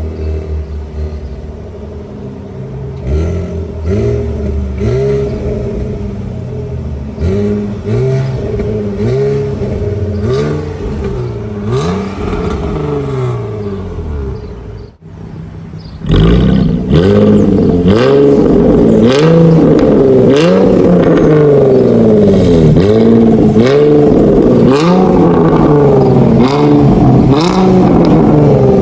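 2016 Jaguar F-Type engine revved again and again through a custom Magnaflow axle-back exhaust with active valves, each blip rising and falling in pitch. After a brief drop-out about halfway, the revs are much louder.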